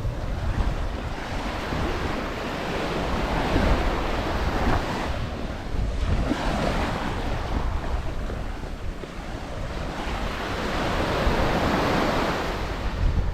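Ocean surf breaking and washing up the beach, swelling and easing every few seconds, with wind buffeting the microphone in a steady low rumble.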